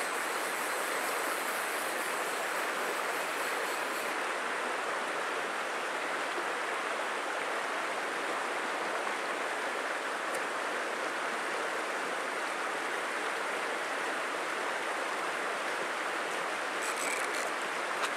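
A small creek flowing: a steady, even rush of running water.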